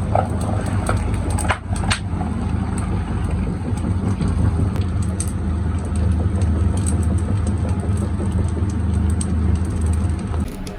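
Heavy machinery running with a steady low hum, overlaid by scattered clicks and knocks, two sharper knocks about a second and a half and two seconds in. The hum drops away near the end.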